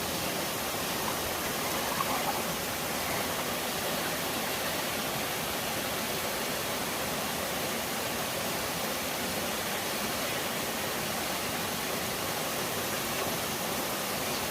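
Steady rushing of water from a waterfall and stream, an even hiss.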